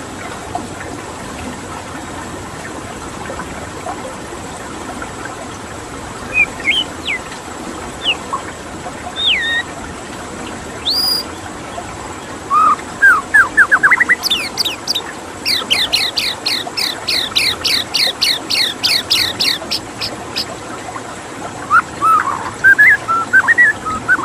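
White-rumped shama singing over a steady rush of flowing water. Single whistled notes start about six seconds in, a fast run of repeated sweeping notes follows in the middle, and more varied phrases come near the end.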